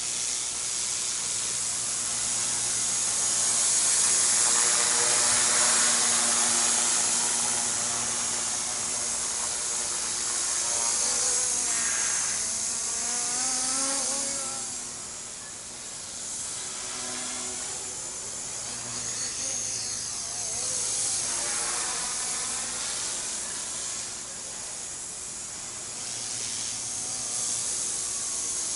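Master CP micro RC helicopter in flight: the high whine of its 3800KV brushless main motors and brushed tail motor over a steady rotor hiss, the pitch rising and falling several times as the throttle and rotor speed change.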